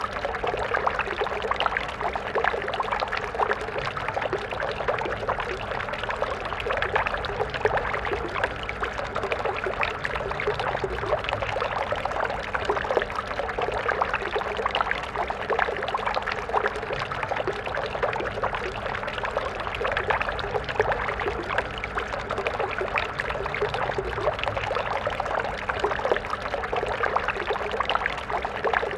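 Stream water flowing and splashing over stones, a steady babbling with dense small splashes and no change in level.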